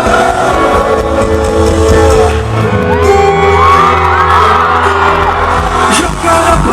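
Live band music played loud through a PA, with the crowd whooping and shouting over it.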